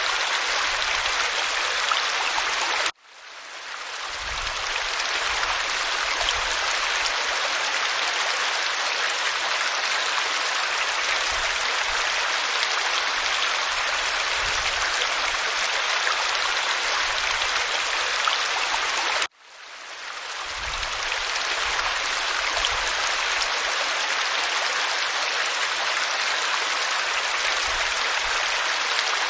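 Waterfall pouring over rock, a steady hiss-like rush of water. The sound cuts out abruptly twice, about 3 seconds in and again about 19 seconds in, and fades back up each time.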